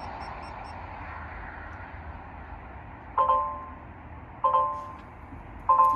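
Three electronic dash chimes from a 2022 Peterbilt's cab, about 1.3 seconds apart, each a ding that fades away. They sound as the truck's electrical system is powered back up after an all-power reset meant to clear a frozen digital dash.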